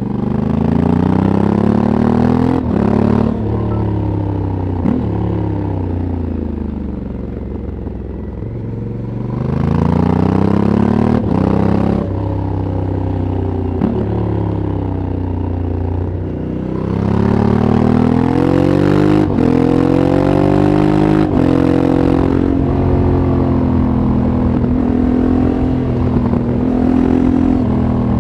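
Stock exhaust of a 2022 Honda CRF1100L Africa Twin's parallel-twin engine under way, repeatedly rising in pitch as it accelerates and dropping sharply at each upshift. Between pulls it falls away on a closed throttle, softer for a few seconds in the first half.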